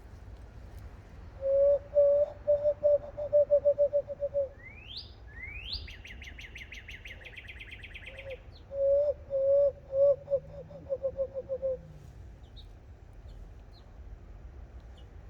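Hand-whistle calls blown through cupped hands: two runs of low hooting whistle notes, each speeding up as it goes. Between the two runs a wild bird sings two rising slurred notes and then a fast high trill, and a few faint high chips follow near the end.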